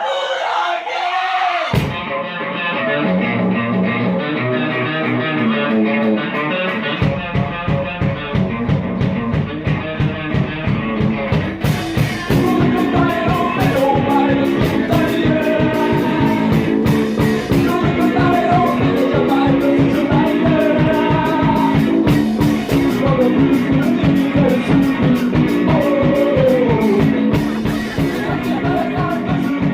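Rock song with guitar and singing. It thickens about seven seconds in with a steady pounding beat, and brighter cymbal-like hits join at about twelve seconds.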